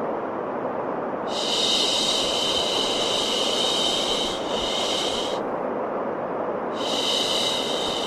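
Steady baby-sleep white noise, a continuous even hiss. A brighter, higher hiss layer swells in for about four seconds, drops away, and comes back near the end.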